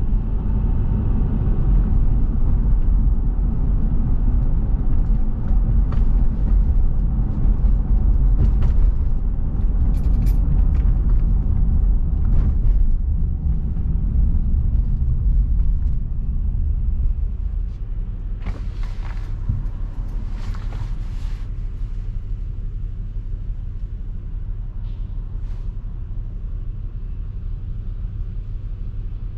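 Car driving, a steady low road and engine rumble that eases off about two-thirds of the way through, with a few brief faint clicks and rattles.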